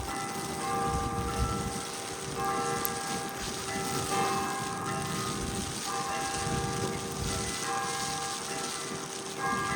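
Church bells ringing, a new set of notes struck about every second and ringing on, the pitch changing from strike to strike, over a steady hiss of city noise.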